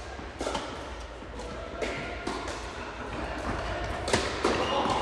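Tennis ball being struck by rackets and bouncing on the court during a rally: a series of sharp pops, one every second or two.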